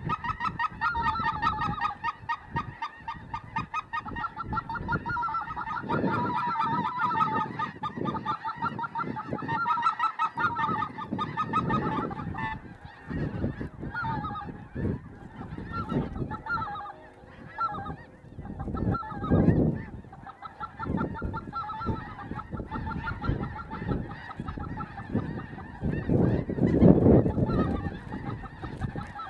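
A large flock of geese calling, many overlapping honks in a dense, continuous chorus, thickest in the first half. Irregular low rumbling surges come and go beneath it, the loudest near the end.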